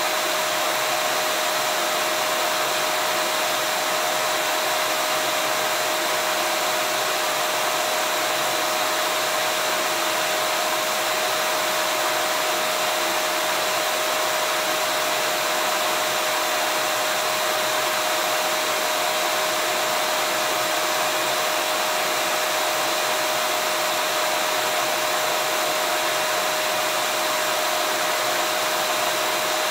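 Vacuum cleaner running continuously and evenly: a steady rushing noise with a constant whine, played as a soothing sound for colicky babies.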